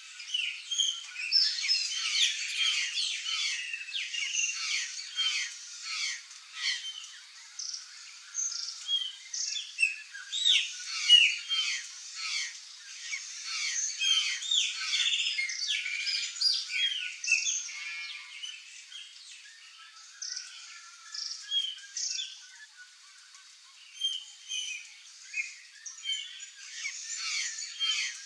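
A flock of curl-crested jays calling: many short, overlapping calls and squawks, thinning out past the middle and picking up again near the end.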